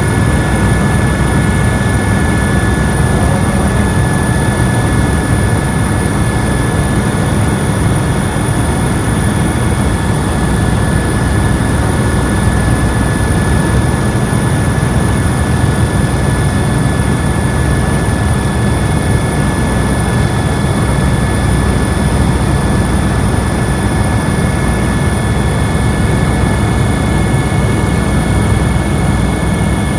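Helicopter in flight: a steady, loud rotor and engine noise with a deep rumble and a constant high whine over it.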